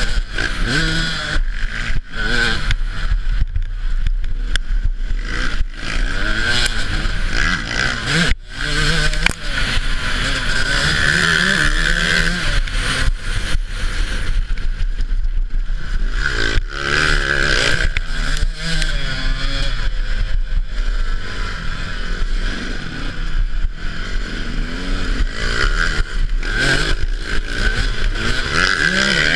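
Off-road motorcycle engine revving up and down repeatedly as the bike is ridden round a motocross track, its pitch rising and falling with the throttle, with a brief cut-out about eight seconds in.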